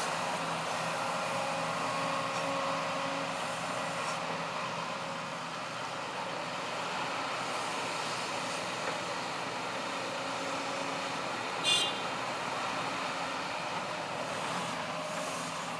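Heavy diesel machine engine running steadily, with a brief high-pitched squeal about twelve seconds in.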